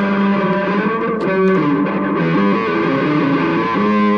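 Guitar playing a run of held notes that step from pitch to pitch.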